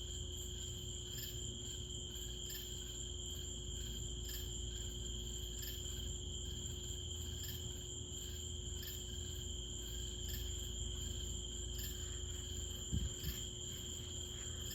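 Night insects, crickets or katydids, trilling steadily in a high-pitched chorus with a faint regular pulse, over a low steady rumble. A single short knock comes about 13 seconds in. No thunder is heard from the lightning.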